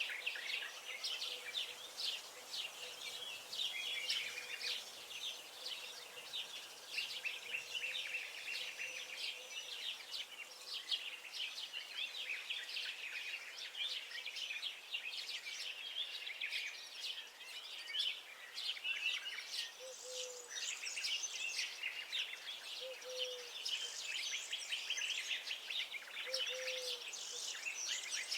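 Several songbirds chirping and singing over one another without a break: a dense chorus of high twittering and trills. A short, low call comes in four times in the second half.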